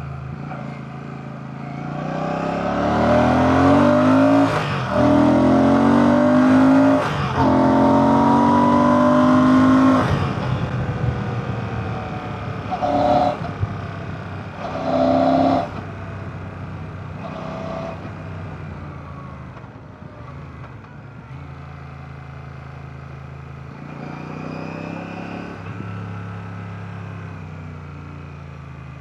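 Royal Enfield Classic 650's 648cc air/oil-cooled parallel-twin engine accelerating under load, its pitch rising through the gears with short breaks for gear changes about 5 and 7 seconds in. The throttle closes about 10 seconds in. Two short throttle blips follow, then the engine runs at lower revs.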